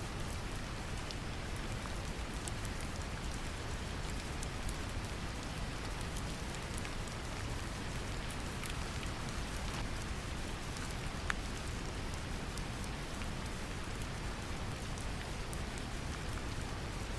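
Steady brown noise mixed with rain falling on a surface, a deep even rumble with scattered light drop ticks.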